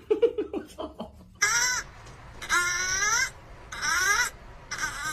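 An animal calling: a quick run of short, falling calls, then four drawn-out cries that bend in pitch.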